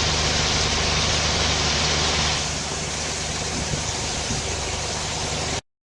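Diesel engine of heavy construction machinery running steadily under a loud hiss, the hiss easing about two and a half seconds in. The sound cuts off abruptly near the end.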